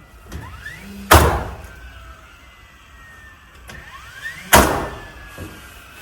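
Cordless power nailer firing twice, about three and a half seconds apart, driving nails through siding boards into the barn framing. Each shot is a sharp bang preceded by a short rising whine as the tool spins up.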